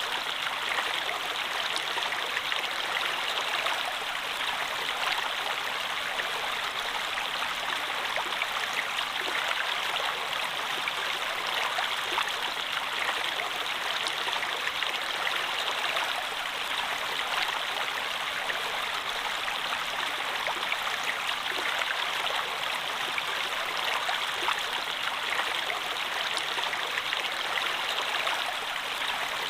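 Stream water flowing and splashing steadily, an even rushing sound without change.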